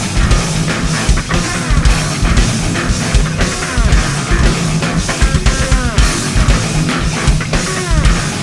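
Live rock trio playing an instrumental passage on electric bass, electric guitar and drum kit, with a heavy pulsing low end and notes that slide in pitch.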